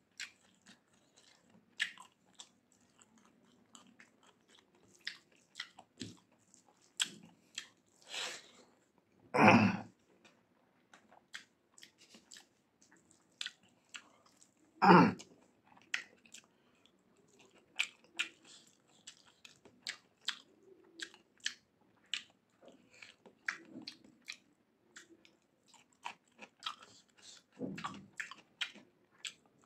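Close-up mukbang eating sounds: a person chewing a mouthful of rice and mutton curry eaten by hand, with many short wet mouth clicks and smacks. Two much louder bursts stand out, about nine and a half and fifteen seconds in.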